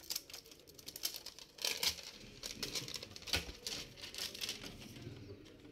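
Irregular light clicks and rustles from plastic laptop parts being handled during disassembly, with a few sharper clicks about two seconds in and again at three and a half seconds.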